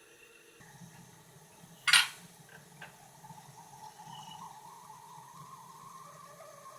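Water being poured into a glass vessel, a faint tone rising in pitch as it fills, after a sharp clink about two seconds in.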